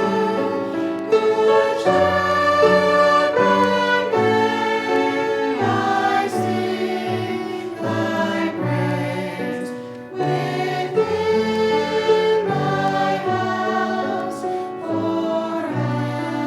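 Slow sacred music with a choir singing long held chords that change every second or two.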